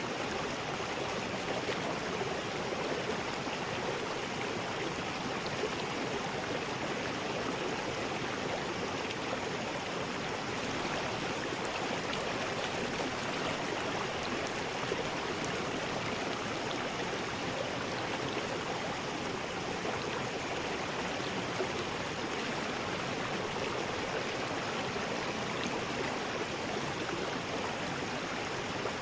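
River rapids rushing steadily over rocks, a constant even roar of white water.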